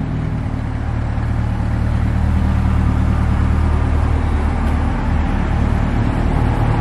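A car engine idling, a steady low hum that swells slightly over the first couple of seconds.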